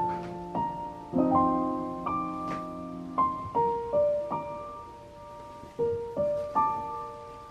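Background music: an unhurried piano melody, notes struck one after another and left to ring and fade.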